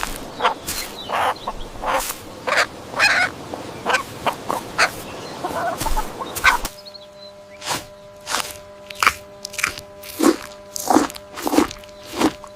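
Farmyard poultry calling: many short, sharp calls in quick succession. About two-thirds of the way through there is an abrupt change to a steadier run of short calls, about two a second, over a faint hum.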